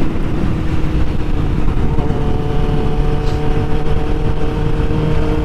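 Heavy wind noise rushing over the GoPro microphone at riding speed, over the steady note of a Suzuki GSX-R600 sport bike's engine cruising. The engine note holds a steady pitch from about two seconds in.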